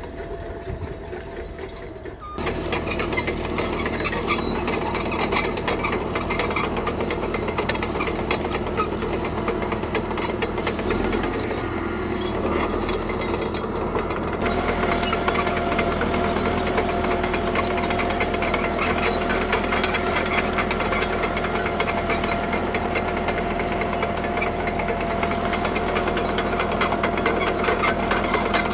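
CAT D3K crawler bulldozer's diesel engine running under load, with steady track clatter as it pushes gravel. The sound gets louder about two seconds in, and a steady high whine joins about halfway through.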